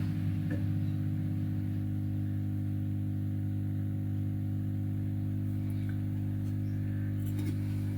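Steady hum of an SMD hot-air rework station running on low airflow, heating a TV's sound IC to melt its solder for removal. A couple of faint clicks.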